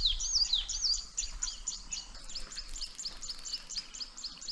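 Wild birds calling: a rapid run of high, repeated chirps, about four a second, with louder down-slurred notes in the first second that fade away after about two seconds.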